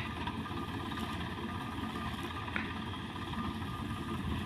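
Engine of a wheat-harvesting machine running steadily while the crop is being cut.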